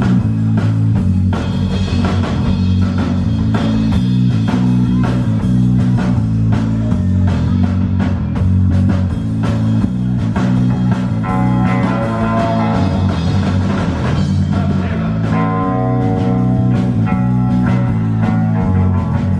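Live rock band playing an instrumental passage with electric guitar, bass and drum kit, loud and steady with no vocals. A pitched guitar line stands out twice in the middle of the passage.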